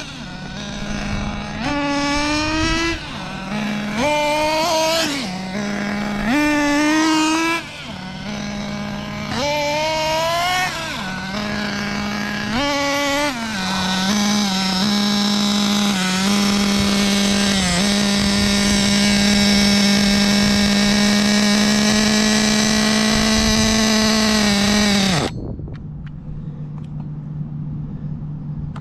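Kyosho nitro buggy's SH PT21-P3 nitro engine being broken in: revved up and back down about five times, then held at a steady high speed for around ten seconds before it cuts out suddenly, the pitch dropping away. A lower, quieter steady hum is left after it stops.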